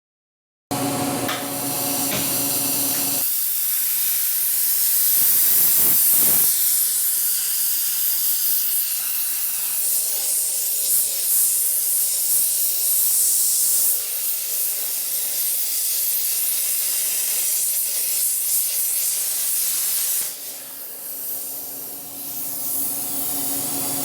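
Hypertherm plasma cutter cutting through steel: a loud, steady high-pitched hiss of the arc and air. The hiss starts just under a second in and eases off near the end.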